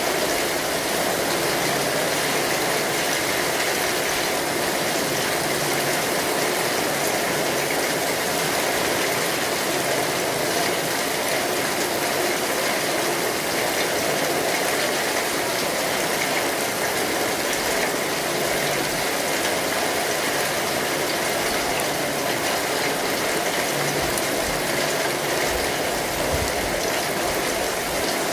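Steady rain falling on an umbrella, an even, unbroken patter of drops.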